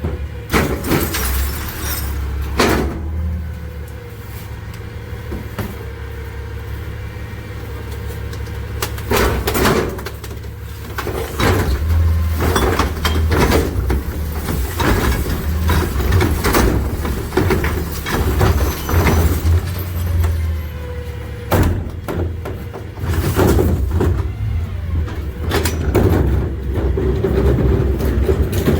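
McNeilus rear loader garbage truck running through a steady low engine hum, with repeated metal clanks and bangs at irregular intervals, heaviest in the middle and the last third.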